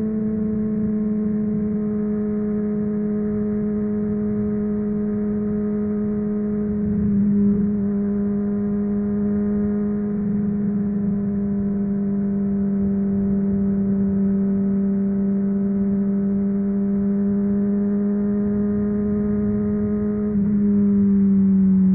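Honda CBR600RR inline-four sportbike engine with a MIVV Suono aftermarket exhaust, running at a steady high rpm while cruising. Its pitch dips slightly and it gets louder near the end.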